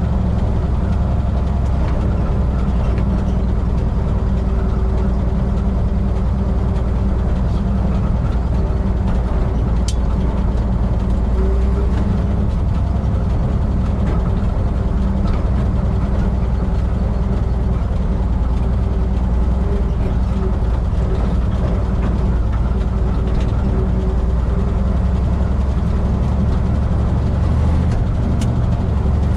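1959 International B-160 truck's engine idling steadily, with a thin steady whine over its low hum.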